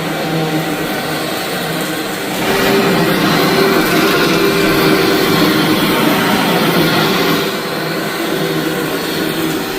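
Vacuum cleaner running over a dirty rug with a steady motor hum. It grows louder and brighter for about five seconds in the middle, then settles back.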